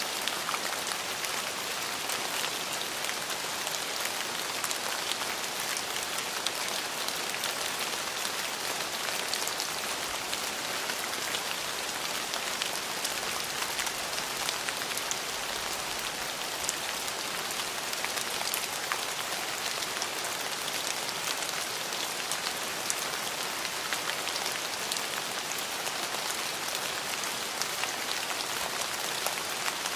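Steady rain falling on a surface, a dense even hiss with many small drop patters; no thunder in this stretch.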